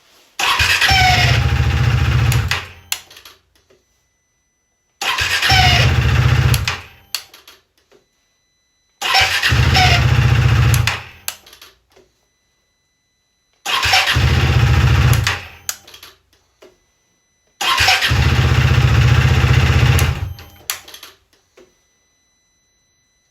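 KTM Duke 390 (2022) single-cylinder engine started five times, each start with a loud scraping, scratching noise. The engine runs for about two seconds each time and is then cut off. The owner suspects the starter clutch (freewheel) is not disengaging once the crankshaft overruns the starter motor.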